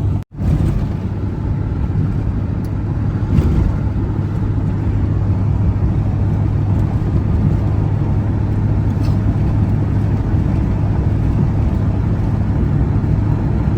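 Steady engine and road noise of a vehicle being driven, with a constant low hum. The sound cuts out for an instant just after the start.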